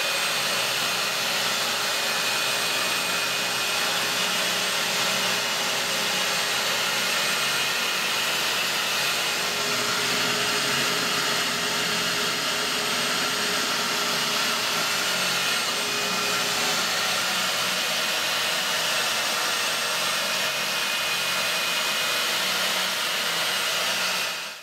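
Vacuum cleaner running steadily, sucking soot and debris out of an oil-fired hot water boiler, then switched off near the end.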